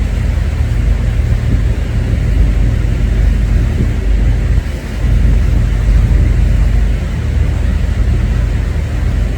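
Steady low rumble of a car ferry underway, with a brief dip in level about halfway through.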